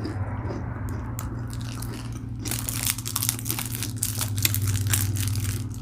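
Close-up chewing and crunching of a light chocolate bar with a hazelnut filling: dense crisp crackles that thicken about halfway through, over a steady low hum.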